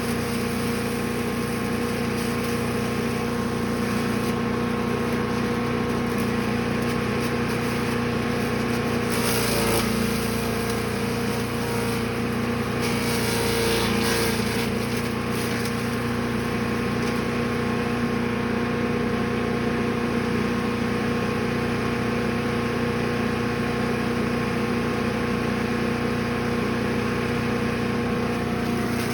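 Gas engine of a Brush Master 3-in-1 wood chipper/shredder running steadily at speed, with brief bursts of noise about nine and fourteen seconds in.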